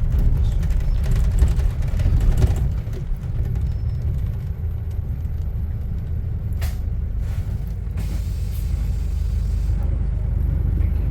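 A motor vehicle moving through city traffic: a steady low rumble of engine and road, with a couple of short sharp knocks about two-thirds of the way through.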